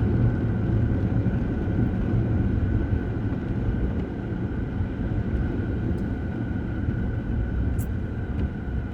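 Steady low rumble of road traffic and car noise, with a faint steady high tone running through it.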